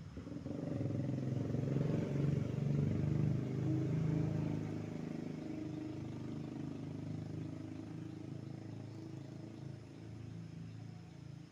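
A motor engine running: a low steady hum that swells soon after the start, is loudest for a few seconds, then slowly fades.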